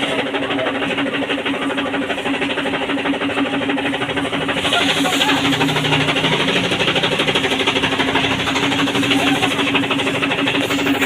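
Washing machine running: a steady motor hum with a fast rattle, getting a little brighter about four and a half seconds in.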